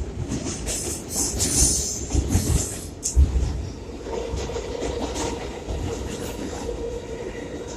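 New York City subway 4 express train running through the tunnel, heard from inside the car: wheels rumbling and clattering on the rails, with hissy squeals and knocks in the first few seconds. A steady high whine sets in about four seconds in.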